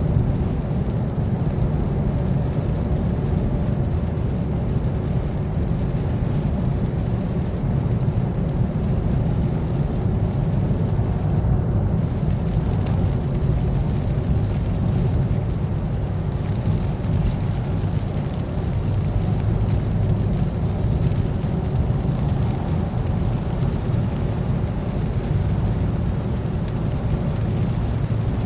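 Heavy rain pouring down without a break, heard as a steady low rush.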